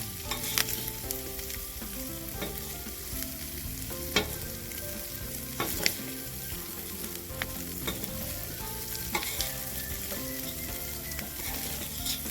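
Oil sizzling in a paella pan over a wood fire, with a steady hiss and scattered sharp clicks and knocks of a utensil against the pan.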